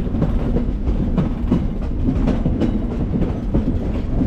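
Passenger train rolling along the track, heard from on board: a steady low rumble with repeated clacks of the wheels over the rail joints.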